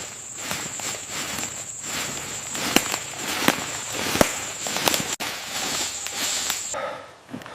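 Outdoor insect drone: a steady high-pitched buzz over a noisy bed, with irregular crackles and snaps scattered through it. It cuts off suddenly near the end.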